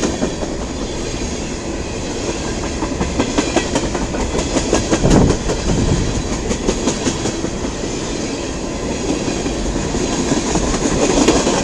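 Freight cars at the tail end of a long mixed-freight train rolling past, their wheels clicking in clusters over the rail joints.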